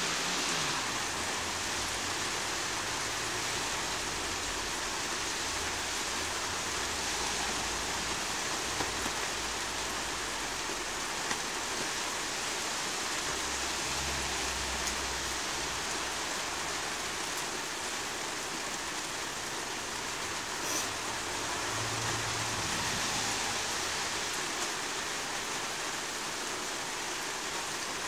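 Thunderstorm rain falling steadily, with a few soft low rumbles underneath.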